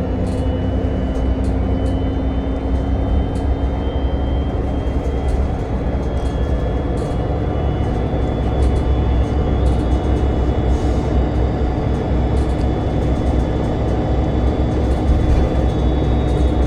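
Steady ride noise inside a moving route-42 public transport vehicle: a continuous low rumble with faint whining tones that drift slowly in pitch and occasional small rattles.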